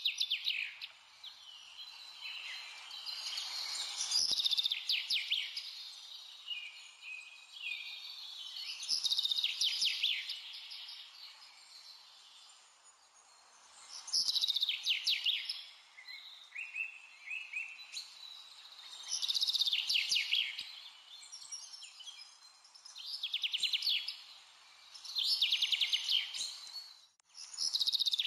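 A small songbird singing in repeated high trilled phrases, each a second or two long, coming about every five seconds over a faint steady hiss.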